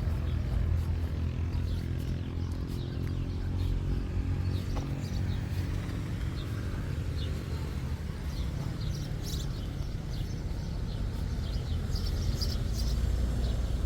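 A steady low motor rumble, like a vehicle engine running close by, with birds chirping in the second half.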